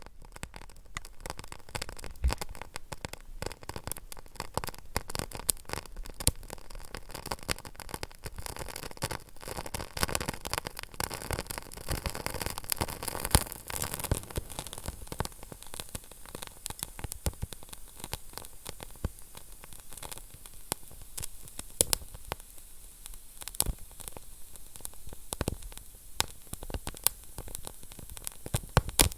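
Wood fire burning in a fireplace, a steady hiss with constant crackling and scattered louder pops.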